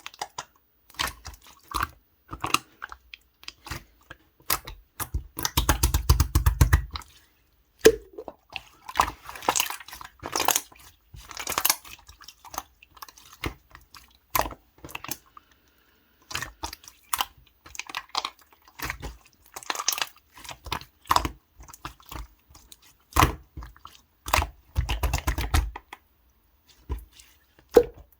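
Translucent red slime being pressed, stretched and folded by hand: irregular sticky clicks, pops and squelches, with two denser stretches of rapid crackling about six and twenty-five seconds in.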